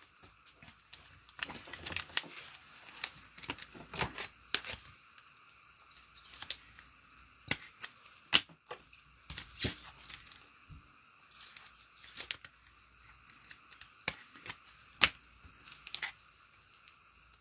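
Sports card packs being torn open and the cards handled: a run of scattered sharp clicks, taps and short tearing and rustling sounds.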